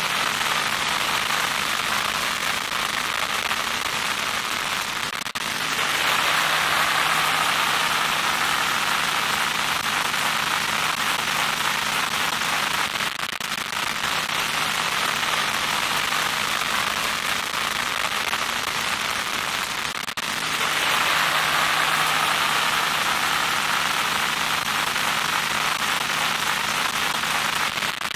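Loud electronic static: a continuous crackling hiss that switches every seven or eight seconds between a duller and a brighter, harsher texture, the brighter stretches carrying a steady low hum.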